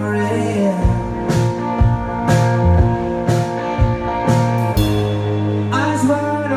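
Live rock band playing an instrumental passage with no singing: sustained chords over a held bass note, with the bass line getting busier and drum hits landing from about a second in until near the end.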